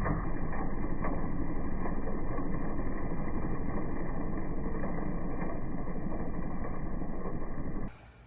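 PowerSmart 40V cordless push mower with a brushless motor running steadily while cutting grass, stopping suddenly near the end.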